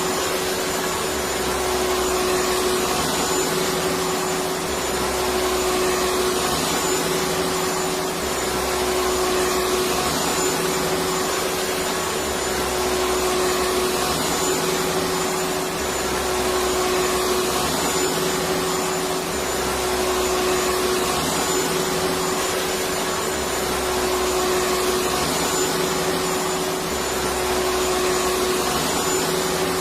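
Electric vacuum cleaner running continuously: a steady whooshing whir with a constant hum-like tone through it, and a low rumble that swells and fades about every four seconds.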